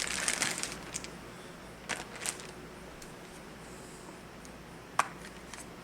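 Rechargeable cordless-phone batteries being handled: a brief rustle, then a few scattered sharp clicks, the sharpest about five seconds in.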